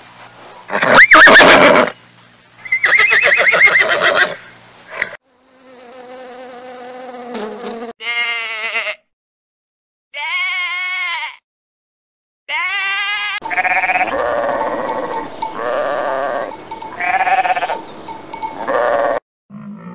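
A run of animal calls cut together. A horse whinnies in the first few seconds. Then come short separate lamb bleats with silences between them, and from about halfway a young ibex bleats over and over almost without a break.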